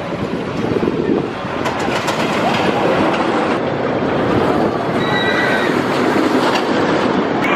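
Storm Chaser, a Rocky Mountain Construction steel roller coaster, with its train running along the track: a steady loud rumble of wheels on rail mixed with rushing air. A brief high squeal comes about five seconds in.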